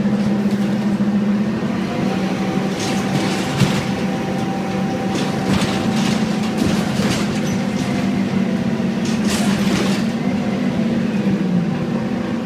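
Scania N230UD double-decker bus engine running steadily under way, with a thin whine above the drone for a few seconds and brief rattles from the bodywork now and then. The engine note dips slightly near the end.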